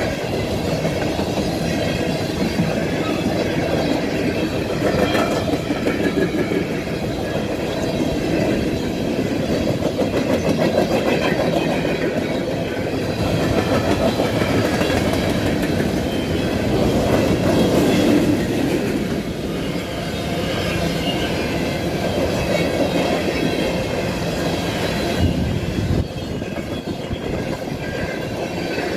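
Empty CSX hopper cars rolling past: a steady rumble and rapid clatter of steel wheels over the rail joints, with a faint high wheel squeal underneath.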